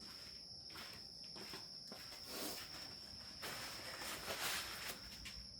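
Faint shuffling and rustling noises, loudest in the second half, over a steady high-pitched tone.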